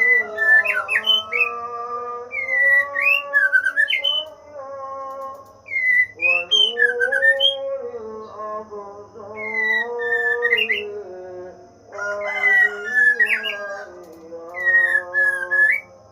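Songbird chirping and whistling in short rising and falling phrases over background music with a held, slowly gliding sung or played melody.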